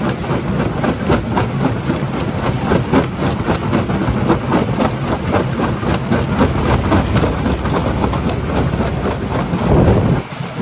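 Primary jaw crusher crushing rock: a steady heavy machine rumble with dense, irregular knocking and clattering of stone. The sound drops away briefly just before the end.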